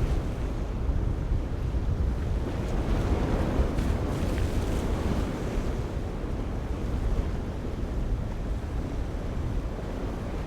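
Wind buffeting the microphone over the steady rush of ocean surf and waves.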